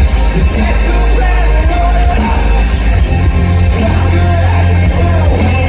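Live rock band playing loud with distorted guitars, heavy bass and drums, and a voice singing over them, heard through a phone's microphone in a concert hall crowd.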